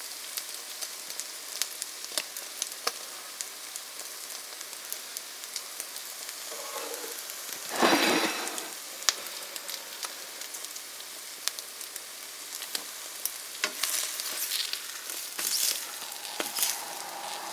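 Buttered egg bread with eggs set in their middles sizzling in a frying pan, a steady hiss with many small crackling pops. It swells louder briefly about eight seconds in and again in a few stretches near the end.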